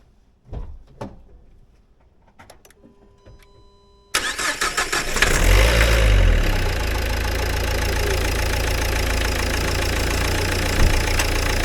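Two knocks, then faint steady tones. About four seconds in, the Nissan Qashqai's 1.5 dCi K9K diesel engine is cranked and starts, flares briefly, then settles into a steady idle.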